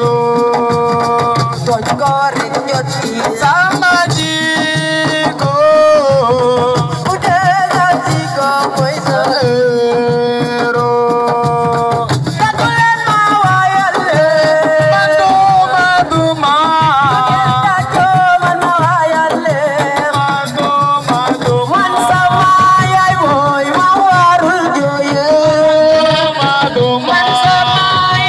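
Assiko (siko) band music: a held, wavering melody line over busy, continuous hand-drum percussion.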